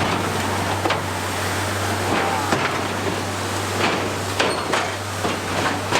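Old truck camper driving over a rough unpaved track: a steady low engine drone with road noise, broken by repeated sharp knocks and rattles as the truck bumps along.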